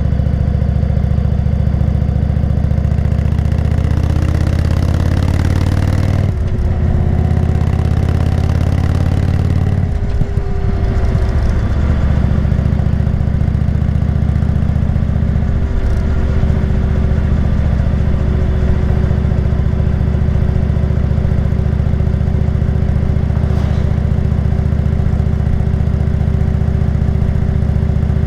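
Indian motorcycle's V-twin engine running on the road, speeding up with brief breaks in the note about six and ten seconds in, as at gear changes, then holding a steady cruise.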